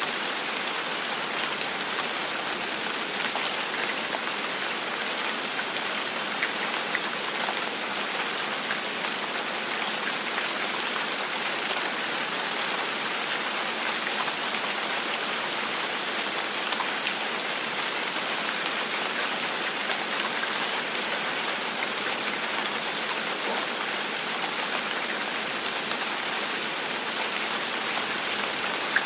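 Steady gentle rain falling on a surface, a continuous even hiss of many small drop patters with no thunder.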